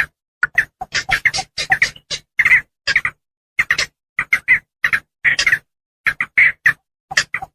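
Javan pond heron calls: harsh, short squawks, several a second, in irregular runs broken by brief pauses.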